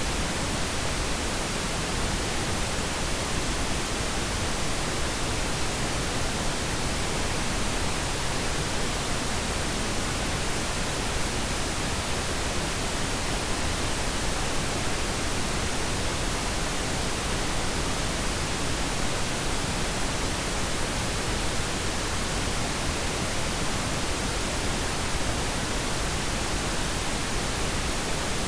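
Pink noise: a steady, even hiss spread across all frequencies, unchanging throughout.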